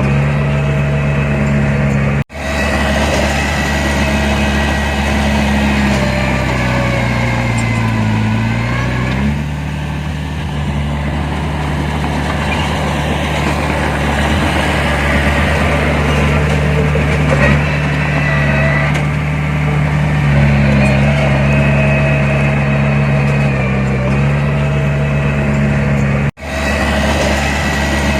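Heavy diesel earthmoving engine running steadily. Its pitch dips and climbs back about eight seconds in, and the sound drops out for an instant twice, about two seconds in and near the end.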